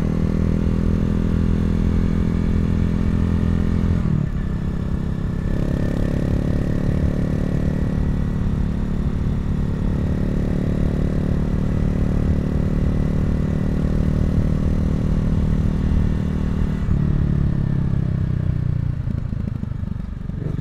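Honda CRF250L's single-cylinder four-stroke engine running under way on a winding road. The engine note dips briefly about four seconds in, then holds steady, and falls off near the end as the revs drop.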